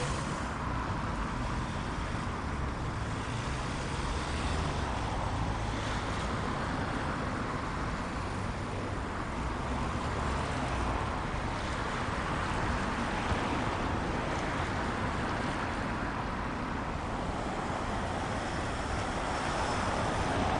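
Steady low rumble of a running vehicle, without distinct strokes or events.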